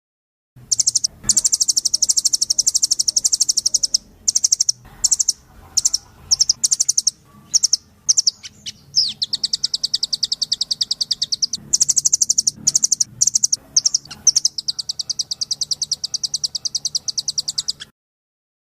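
Songbird song from a bird-training (masteran) recording: long, rapid, high-pitched trills broken by short chattering phrases and brief pauses. It starts abruptly just after the start and cuts off suddenly near the end, with a faint steady hum underneath.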